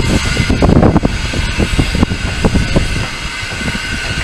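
Passenger train moving off along the line: coaches rolling on the rails with irregular low rumbles and thuds, over a steady rushing noise.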